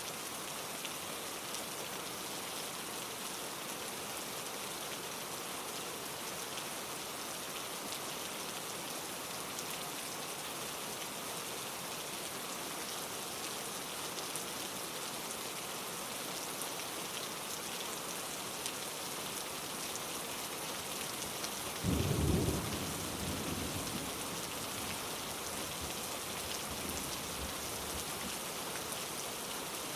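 Steady rain falling on leaves, an even hiss of many drops. About two-thirds of the way through, a sudden short low rumble of thunder that fades over a couple of seconds.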